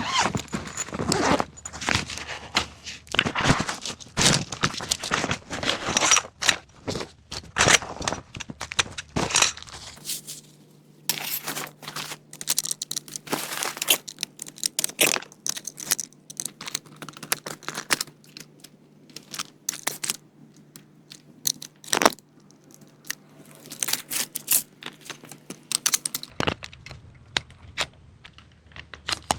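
Handling noises: many irregular clicks, knocks and scrapes with crinkling and rustling between them, as of gear being handled close by.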